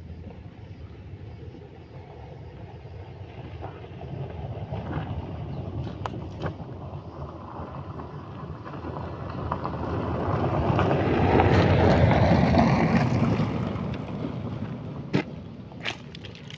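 A vehicle passing on a gravel road with crunching tyre noise. It grows louder to a peak about twelve seconds in, then fades, and a few sharp clicks follow near the end.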